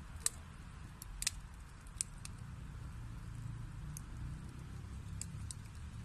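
Wood fire burning in a fireplace: sharp crackles and pops scattered irregularly over a low, steady rumble of the flames.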